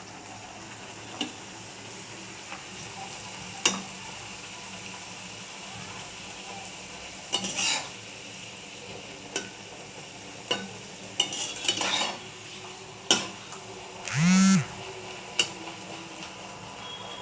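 Food sizzling in hot oil in a pan, with a metal spatula stirring and scraping against the pan in scattered clicks and scrapes. About fourteen seconds in comes a brief, loud squeal that bends in pitch.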